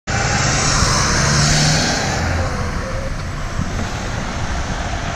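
City street traffic with a large truck's engine running close by, loudest in the first two seconds, then settling into a steady traffic rumble.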